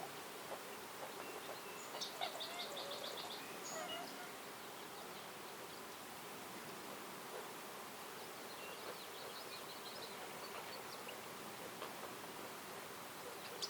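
Wild birds calling over a steady background hiss. About two seconds in, a bird gives a quick trill of repeated high notes, and softer chirps follow from about eight to eleven seconds.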